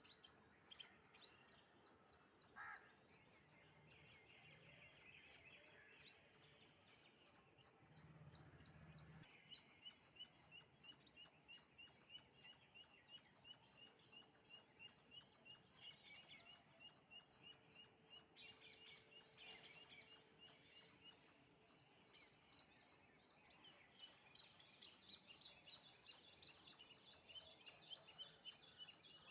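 Sparrows chirping faintly, a continuous chatter of many quick high notes and rapid trills.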